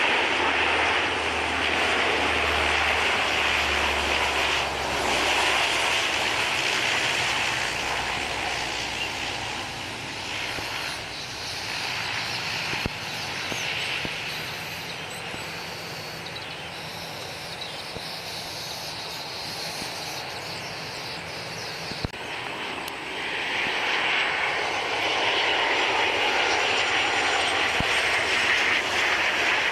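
Lockheed L-100-30 Hercules's four Allison turboprop engines droning on its landing pass, with a low steady tone underneath. About two-thirds of the way through, a sudden break gives way to a Boeing 737-800's CFM56 turbofans on landing, a louder hissing jet rush.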